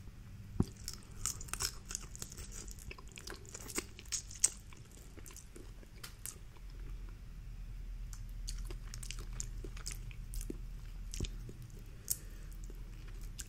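Close-up eating sounds from a boiled shrimp being handled: the shell crackles and clicks irregularly as it is peeled by hand, mixed with wet chewing.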